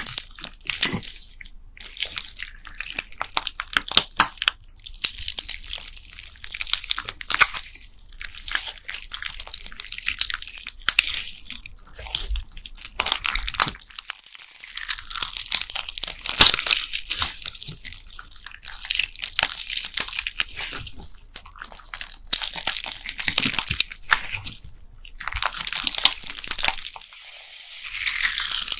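Homemade slime full of small plastic beads being squeezed and kneaded by hand: a dense, crisp crackle of many tiny clicks and squishes, with brief pauses between squeezes.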